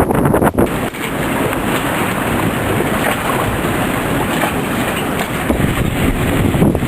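Strong storm wind blowing steadily, with gusts buffeting the microphone.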